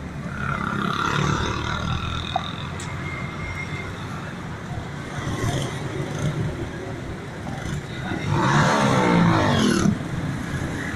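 Motor vehicle engines running, with one vehicle getting loud about eight seconds in, its pitch falling, then cutting off suddenly near the end.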